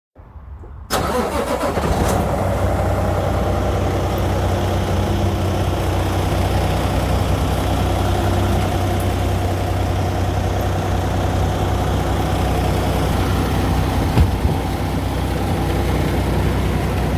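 Semi-truck engine idling steadily, with a single brief knock about fourteen seconds in.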